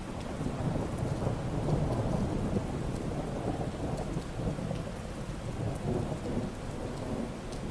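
Steady rain falling, with a low rumble of thunder rolling underneath and a few faint drop ticks.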